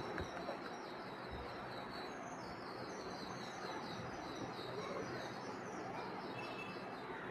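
Birds chirping in quick runs of short high notes over a steady low background noise.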